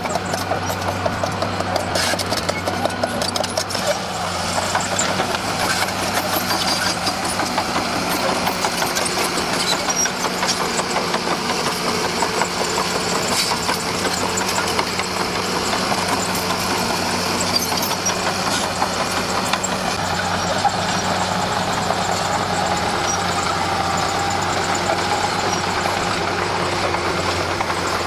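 Komatsu D41P bulldozer's diesel engine running steadily under work, with scattered clanks, most of them in the first few seconds.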